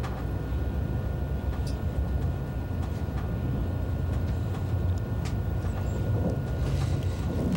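Steady low rumble of an ICE high-speed train in motion, with a few faint clicks.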